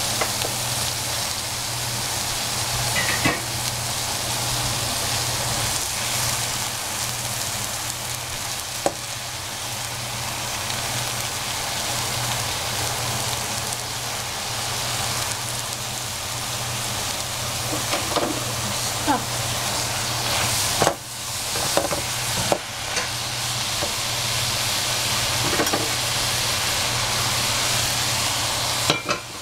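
Food sizzling steadily in a hot pan as it is stir-fried, with a cooking utensil scraping and knocking against the pan now and then, over a steady low hum.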